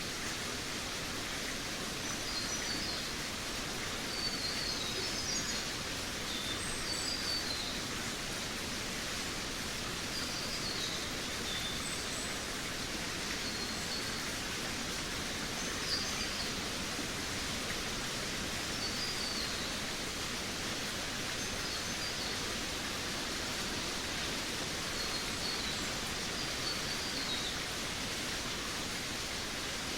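Forest ambience: small songbirds singing short, high chirping phrases every second or two over a steady rushing hiss.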